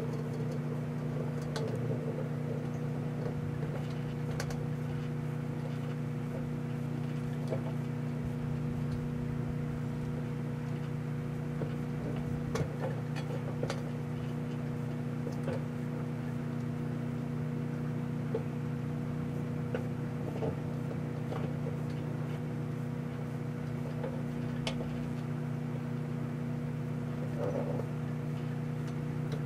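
Microwave oven running with a steady electrical hum, with a few scattered light clicks.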